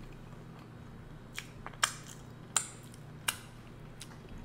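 A person chewing a mouthful of seafood boil close to a microphone: about five short, sharp wet mouth clicks and smacks, the loudest a little under two seconds in.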